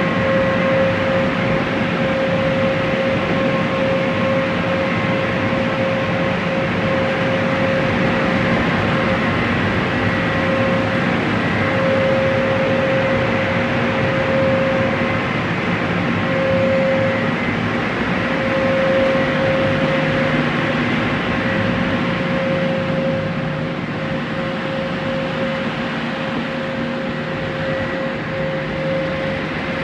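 Express car wash tunnel equipment running steadily: a loud mechanical rushing noise with a constant whine through it.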